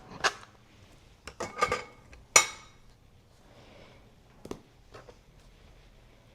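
Art supplies being handled on a tabletop: a few light clinks and clicks, the sharpest about two and a half seconds in, with a couple more near the end.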